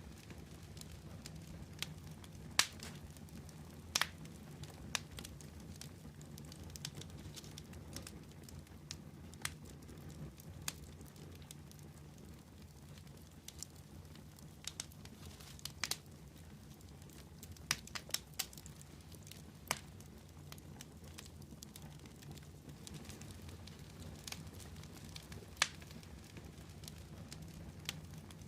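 Wood fire burning with a steady low rumble and sharp, irregular crackles and pops every second or two.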